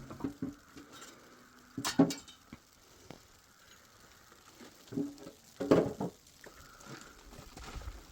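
Scattered knocks and clatter of hard objects being handled, loudest in a burst about two seconds in and another around five to six seconds.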